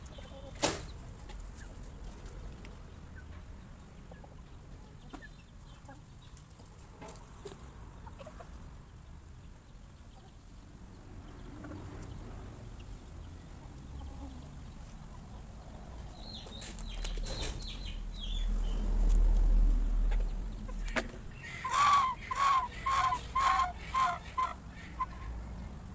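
Chickens pecking and clucking over their feed, with a sharp click about a second in. In the second half there is a low rumble, then a chicken gives a quick run of about eight loud clucks, a startled cackle.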